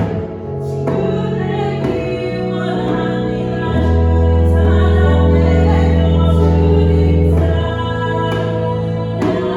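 Christian worship song: keyboard accompaniment and singing, with evenly spaced sharp hits from a djembe hand drum. A loud low note is held through the middle.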